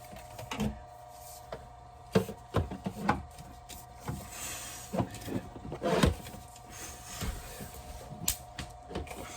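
Heat gun running with a steady motor whine, over scattered knocks and taps from pipe being handled.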